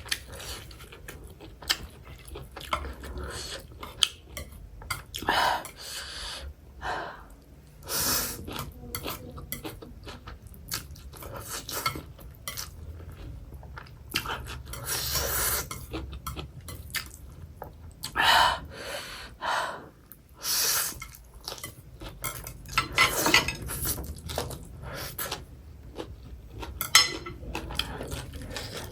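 Cutlery clinking and scraping on a plate in irregular short clicks, with close-up chewing of food between them.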